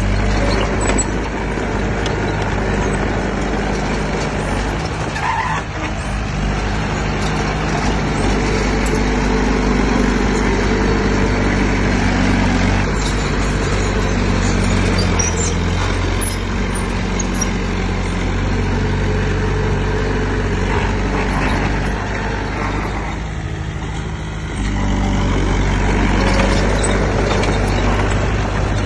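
Heavy diesel engine of construction machinery (bulldozer or dump truck) running under load, its pitch rising and falling as the load changes. It eases off briefly about 23 seconds in, then picks up again.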